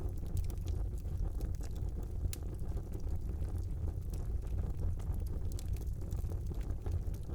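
Wood fire burning in a brick fireplace: a steady low rumble of the flames with scattered small crackles and pops throughout.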